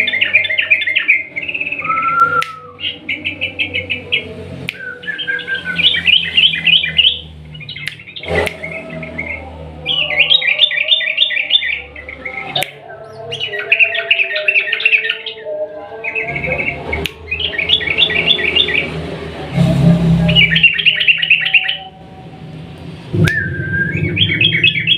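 Yellow-vented bulbul (trucukan) singing long, rapid chattering phrases, each about a second long and repeated every couple of seconds.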